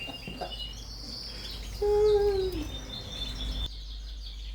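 Many Yorkshire canaries chirping and twittering, with one short, louder, steady tone about two seconds in that drops in pitch at its end.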